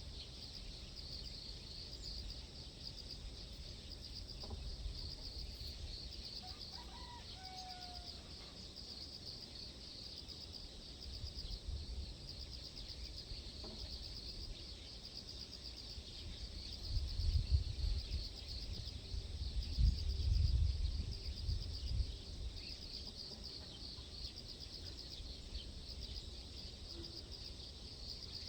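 Outdoor dawn ambience: a steady, high, pulsing chirr of insects, with a brief gliding bird call about seven seconds in. Low rumbling gusts of wind hit the microphone for several seconds past the middle.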